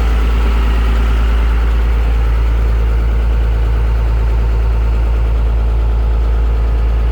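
Boat engine running steadily at low speed, a constant low hum.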